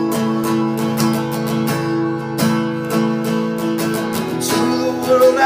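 Acoustic guitar strummed steadily in a slow rhythm between sung lines of a soul ballad.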